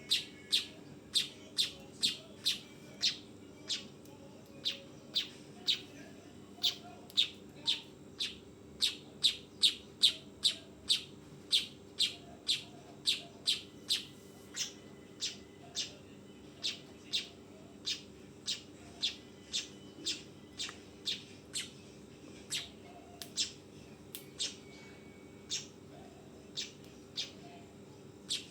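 Manyar (weaver bird) repeating a short, sharp chip call in the trotolan style, about two a second and slowing slightly in the second half, over a faint steady hum.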